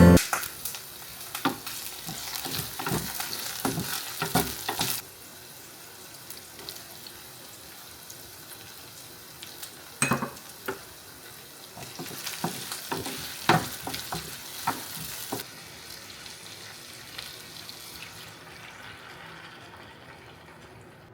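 Food sizzling in a frying pan, with sharp clicks and knocks of a utensil stirring it. The sizzle cuts off abruptly about five seconds in, returns with more clinks around twelve seconds, and fades away near the end.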